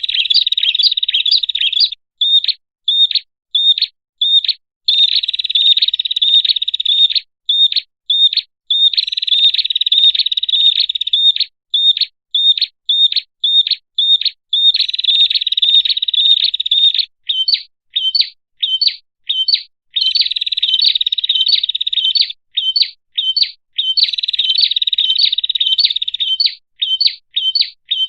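Prenjak (prinia) calling loudly: quick series of sharp, high chip notes, about three a second, alternating with buzzy trills that last about two seconds each.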